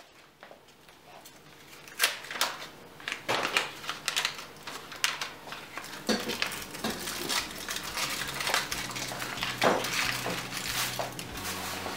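Dishes and cutlery clinking and knocking: a run of irregular sharp clinks and taps, denser after the first couple of seconds.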